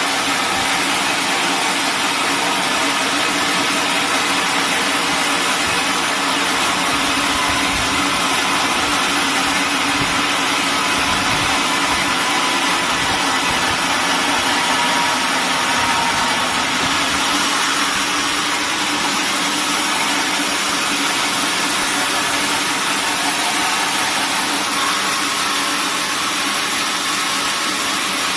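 Sawmill machinery running steadily: a loud, even mechanical drone with a faint low hum, with no clear cut starting or stopping.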